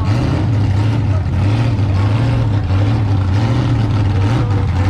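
A car engine idling steadily and loudly, with a deep even hum.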